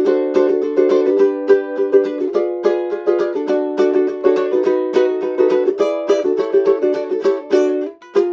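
Ukulele with a capo strummed briskly through a changing chord progression, several strums a second, with a short break just before the end.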